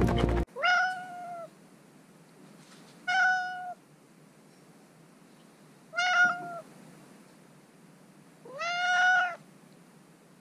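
Tabby cat meowing four times, about two and a half seconds apart, each meow short and level in pitch, the last one the longest. A snatch of music cuts off in the first half second.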